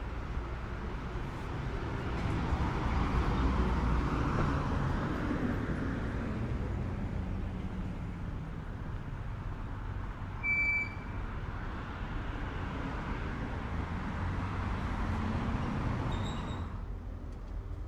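Road traffic going by on a city street: a steady rumble of cars that swells as vehicles pass, first a few seconds in and again near the end. A short high beep sounds about halfway through.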